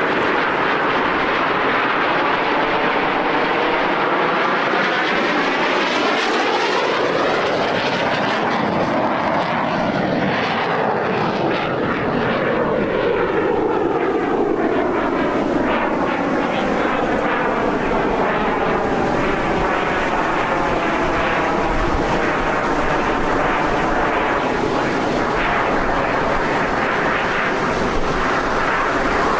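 Jet engines of Frecce Tricolori Aermacchi MB-339 trainers in a continuous loud roar, swelling and shifting in pitch as the aircraft pass overhead about a third of the way in.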